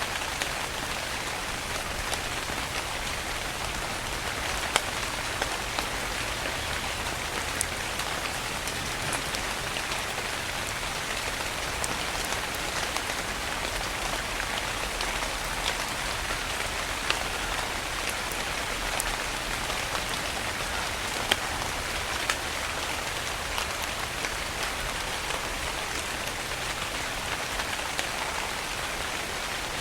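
Steady rain falling on a surface: a continuous even hiss with scattered sharper drop impacts.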